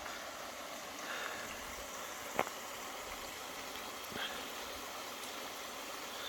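Steady rushing of water from a small waterfall with little flow, with one sharp click about two and a half seconds in.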